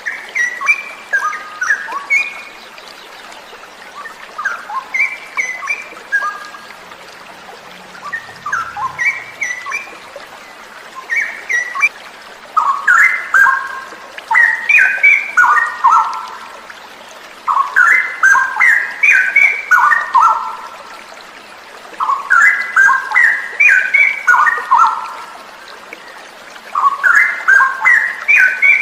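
A bird sings close by in repeated phrases of quick, stepping notes, one burst every four to five seconds, louder from about halfway through. A steady rush of falling water lies underneath.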